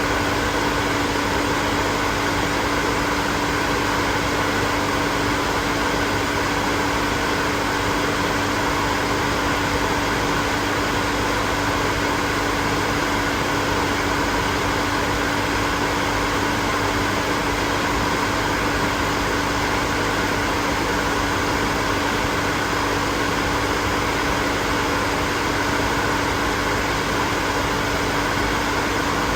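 Hair dryer running continuously: a steady rush of blown air with a constant motor hum underneath.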